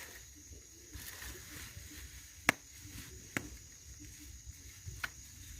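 Bonfire crackling: a few sharp cracks over a faint steady hiss, the loudest crack about two and a half seconds in and smaller ones near three and a half and five seconds.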